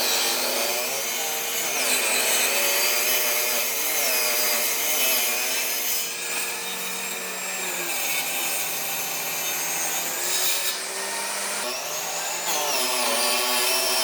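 Electric power tool working wood: a steady hiss over a motor whine that dips and recovers in pitch several times as the tool bites.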